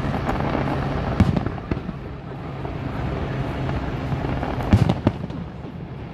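Fireworks bursting overhead: a few sharp bangs, two in the first two seconds and a close pair near the end, over a continuous background rumble and hum.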